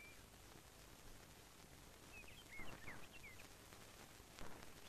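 Faint bird chirps, short up-and-down calls in two brief clusters, at the start and about two to three seconds in, over quiet background hiss, with a soft knock among the second cluster.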